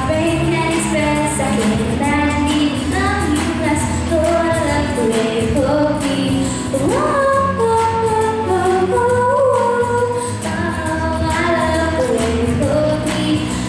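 A female vocalist singing a song over musical accompaniment, her voice sliding up into a held note about seven seconds in.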